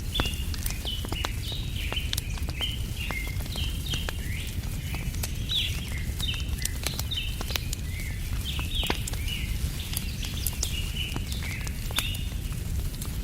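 Small birds chirping almost without pause, many short calls overlapping, over a crackling wood fire that gives sharp pops now and then and a low steady rumble underneath.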